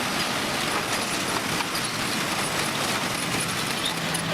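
Heavy earthmoving machinery running, a steady noisy sound with no clear pitch.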